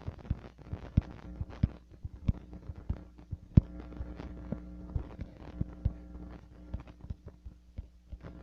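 Irregular sharp knocks and taps, a few a second and uneven, over a steady low hum; the loudest knock comes about three and a half seconds in.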